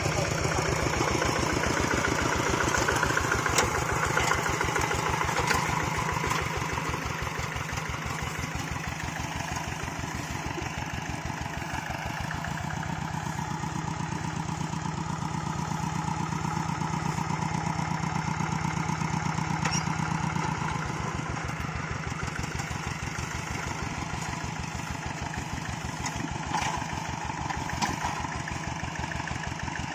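Hand tractor's engine running steadily with an even, fast pulsing beat, with a few light clatters along the way.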